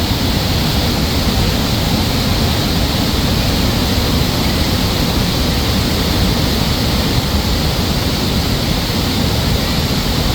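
Waterfall at high flow during a dam release: a loud, steady rush of water.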